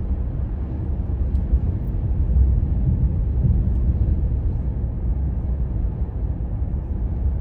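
Steady low rumble of a moving car, road and wind noise with no engine note standing out.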